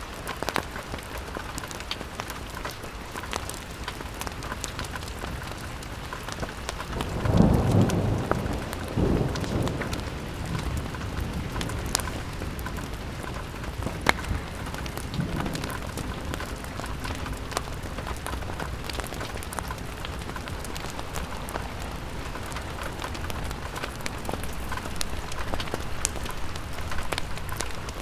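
Steady rain pattering against a window, with scattered sharp ticks. A low rumble of thunder swells up about seven seconds in and fades over a few seconds, with a fainter rumble a little later.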